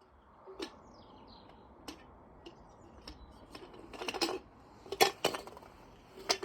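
Hard objects being handled and knocked together: scattered light clicks and taps, a quick rattling cluster about four seconds in, and two sharp clicks about five seconds in.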